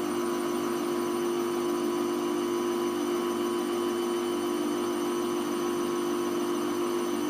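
Hoover Vision Tech VT 914 D22X washing machine running on a 40°C mixed wash cycle, giving a steady motor hum at one pitch.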